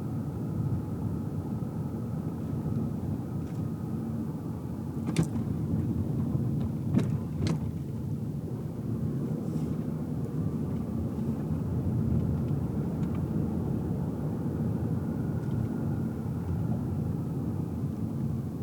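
Car cabin noise while driving: a steady low rumble of road and engine noise with a faint whine above it. Three short sharp knocks or clicks come about five seconds in and twice around seven seconds in.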